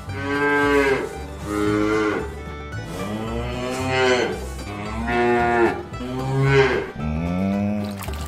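Cattle mooing: about six moos in quick succession, each about a second long and rising then falling in pitch.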